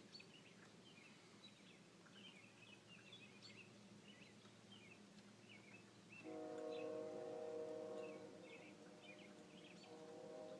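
Faint birds chirping. About six seconds in, a distant train horn starts: a steady chord of several held tones that sounds for several seconds.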